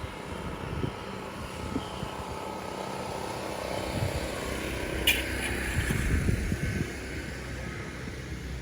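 Wind rumbling on the microphone over a steady engine drone, with a sharp click about five seconds in.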